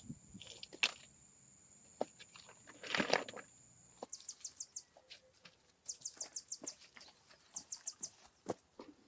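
A small bird's rapid, high chirping in three short runs of about ten notes a second, over scattered knocks and a brief rustle about three seconds in. A steady high tone stops suddenly about four seconds in.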